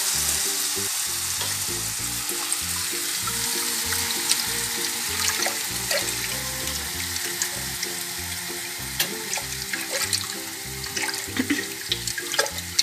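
Porcini mushrooms sizzling in a frying pan, a steady hiss that slowly fades, with light clicks of a wooden spoon stirring béchamel in a steel pot. Background music plays underneath.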